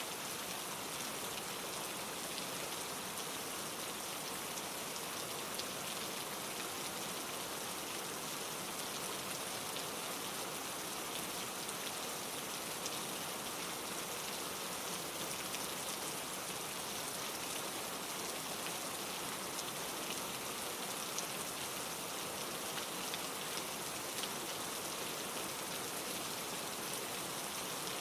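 Steady rain falling, with many small separate drop impacts ticking through an even hiss.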